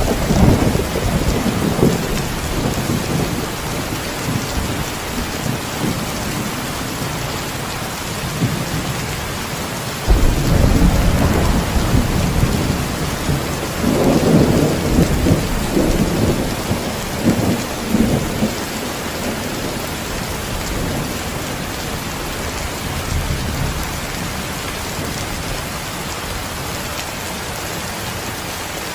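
Heavy rain falling steadily, with thunder rolling over it: a rumble dying away in the first few seconds, then a sudden crack about ten seconds in that rumbles on, swelling twice, for around eight seconds before the rain is left alone.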